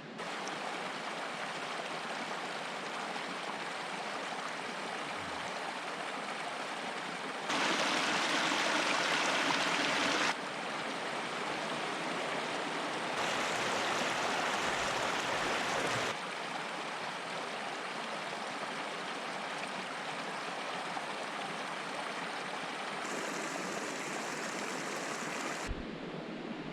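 Rushing water of a river cascade, a steady rush that twice becomes louder for a few seconds, starting and stopping abruptly.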